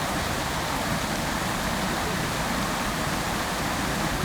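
Water from a fountain splashing steadily into its basin, an even rushing hiss with no breaks.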